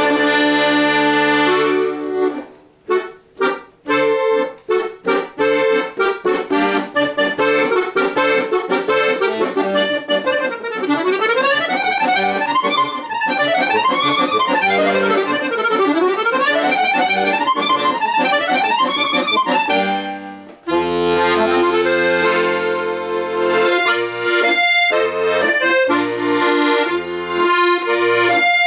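Accordion playing an instrumental folk tune. It opens with held chords, moves into short detached notes and fast runs up and down, breaks off briefly about twenty seconds in, then resumes with chords over a bass line.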